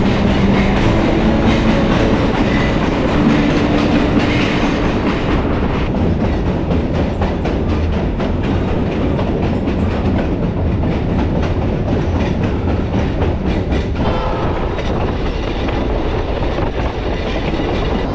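Conway Scenic Railroad passenger train running on the track: a steady rumble with repeated clicks from the wheels.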